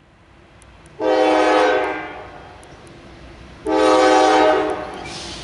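Norfolk Southern freight locomotive's air horn sounding two blasts of about a second each, the first about a second in and the second a little under three seconds later, over the low rumble of the approaching train.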